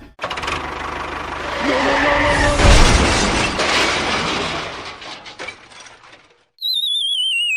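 A long noisy crash with a shattering quality, loudest about three seconds in and fading out, then a wobbling whistle-like tone that slides steadily downward in pitch.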